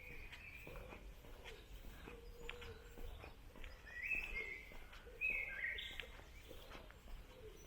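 Songbirds singing short, bright phrases at the start and again about four and five seconds in, over faint, regular footsteps on a woodland path.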